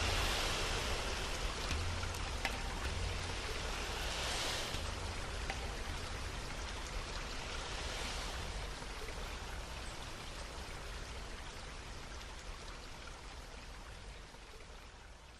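Steady rushing, water-like noise, like a flowing stream, that fades out gradually toward the end.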